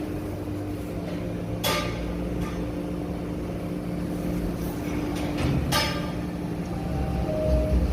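Subway train running at the station: a steady rumble and motor hum, with two sharp clanks about four seconds apart.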